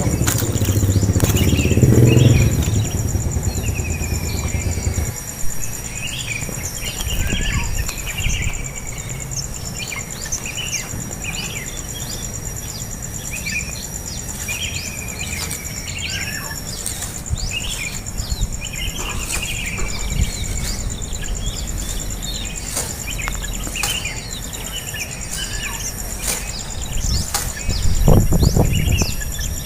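Small birds giving many short, repeated chirps, typical of nestlings begging for food, over a steady high insect drone. A low rumble fills the first few seconds and comes back briefly near the end.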